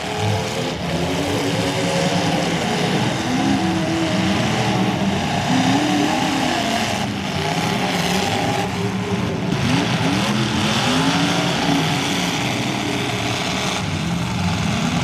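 Several demolition derby cars' engines revving together, their pitch rising and falling as they accelerate and reverse. A few sharp crashes of cars colliding come about seven, nine and fourteen seconds in.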